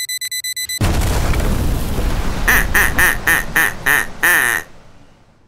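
Edited sound effects: a rapid electronic beeping, about seven beeps a second, is cut off just under a second in by a loud explosion-like boom. Six short pitched honks follow over the boom's tail before it fades out.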